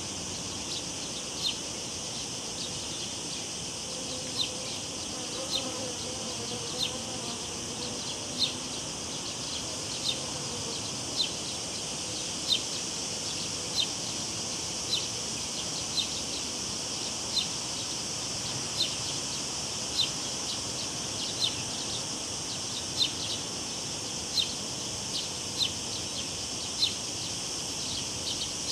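Cicadas droning steadily in a high, even chorus. A short, sharp chirp repeats about every second and a half.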